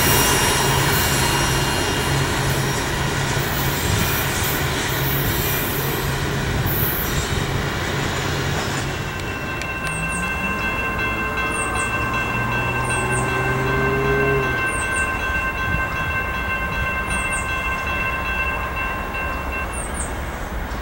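Freight train of open hopper cars rolling past on the rails, with steady high squeal tones from the wheels. About nine seconds in the sound changes to a quieter scene: several steady high tones and short high chirps every second or two.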